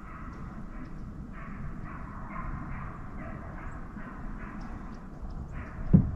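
Hounds baying in the distance, a steady run of short barks about twice a second, over a low rumble. A single loud thump comes near the end.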